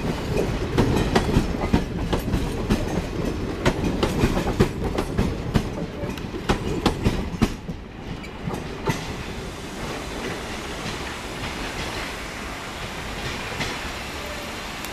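Passenger coaches of an express train rolling past, their wheels clattering over rail joints in quick, irregular clicks. The clatter stops about halfway through as the last coach goes by, leaving a steadier, quieter noise from the receding train.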